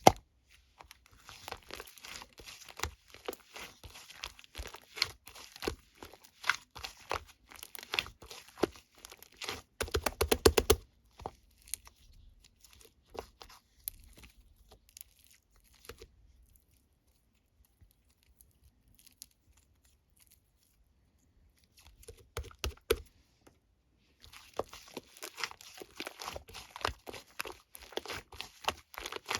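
Slime being squeezed and stretched by hand, making dense runs of crackling, popping clicks. It thins out and goes nearly quiet for several seconds in the middle, then the crackling picks up again near the end.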